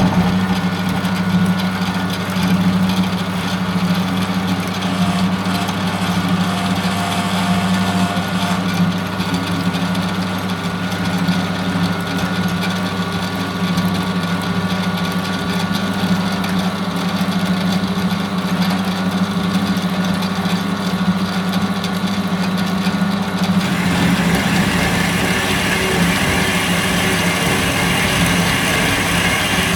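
Metal-cutting bandsaw running with a steady motor hum as it cuts 40 mm 4140 steel round bar; about 24 seconds in the sound turns harsher and hissier.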